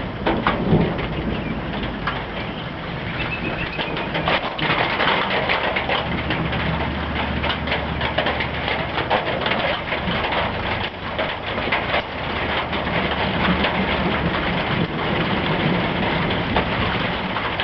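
Heavy rain pouring down, a dense hiss with many sharp taps of drops striking close by.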